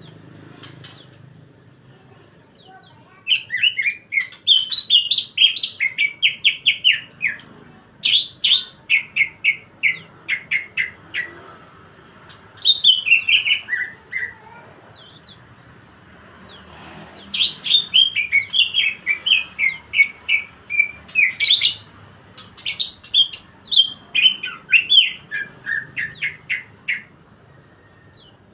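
Green leafbird (cucak ijo) singing in full voice: long runs of rapid, chattering high notes, five runs of a few seconds each with short pauses between.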